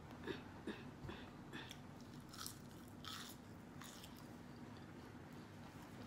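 Crispy fried chicken being bitten and chewed with the mouth close to the microphone: a string of short, irregular crunches that thin out after about four seconds.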